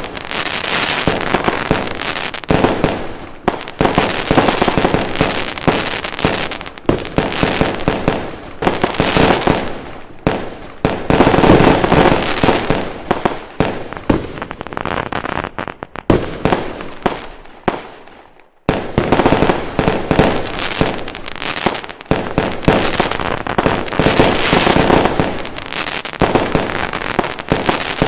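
Fireworks going off in dense, rapid volleys of bangs and crackles, almost without a break. There is a brief lull about two-thirds of the way through before the barrage resumes.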